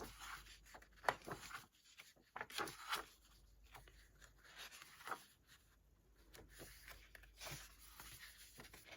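Sheets of a patterned paper pad being handled and turned over: faint paper rustles with a few light taps, the sharpest about a second in.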